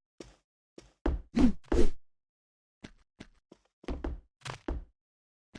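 A series of dull knocks and thwacks. The three loudest come in quick succession about a second in, followed by fainter taps.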